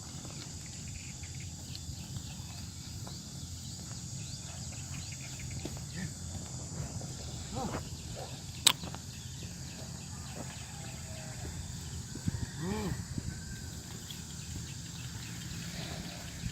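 Outdoor rural ambience: a steady high-pitched insect chirring over a low rumble, with one sharp click about halfway through and a few brief faint calls later on.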